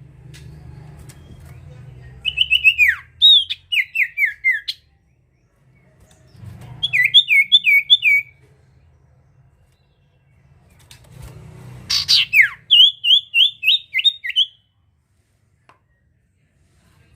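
A sirtu, a small songbird kept in Indonesia, singing in full voice: three bursts of quick, high whistled notes, each note slurring downward, about four or five notes a second. A faint low hum lies underneath.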